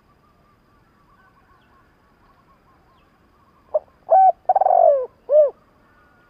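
Spotted dove calling: a short note, then a coo, a longer coo that falls in pitch, and a final coo, in the second half. Faint high twittering sounds before it.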